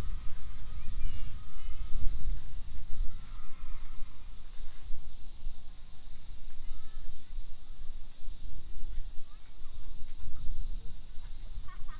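Outdoor park ambience: an uneven low rumble with a steady high hiss, and a few faint bird calls, a little louder near the end.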